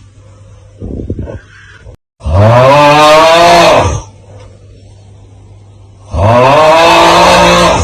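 The 'Aauugghh' meme sound effect: a man's loud, drawn-out guttural yell, its pitch rising and then falling, heard twice about four seconds apart. About a second in there is a short, quieter rattling breath, like a snore.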